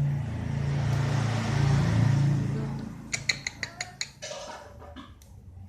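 A lovebird giving a quick run of sharp, high chirps, about five or six a second, starting about three seconds in, with a few fainter chirps after. Before the chirps, a low hum swells and fades.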